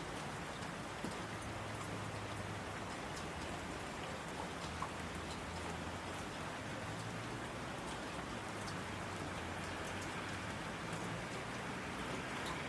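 Steady rain falling, with the patter of individual drops striking surfaces.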